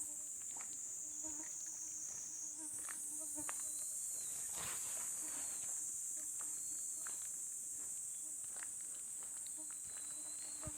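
Dense night chorus of crickets and other insects, a steady high-pitched shrill that shifts slightly higher a couple of seconds in. Under it, faint low calls that are likely frogs repeat, with a few soft footsteps.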